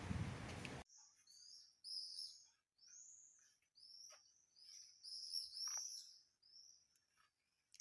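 Wind buffeting the microphone, cut off abruptly under a second in; then a small bird's repeated short, high chirps, about two a second.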